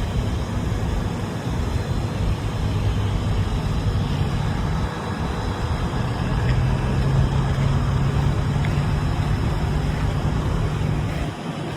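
Truck engine running with a steady low drone; its pitch rises about halfway through as the engine speeds up.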